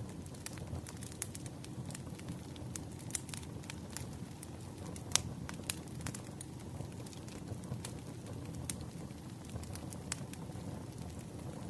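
Wood fire burning with irregular crackles and sharp pops over a steady low rumble, the loudest pop about five seconds in.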